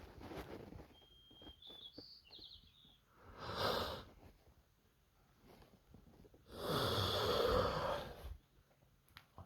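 A person breathing close to the microphone: a short breath about three and a half seconds in and a longer, louder one near the end. A bird chirps faintly in the background early on, in a short run of high notes.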